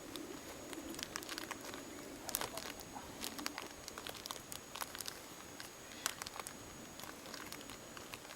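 Wood campfire crackling, with irregular sharp pops and snaps scattered through, the loudest about two and a half seconds and six seconds in.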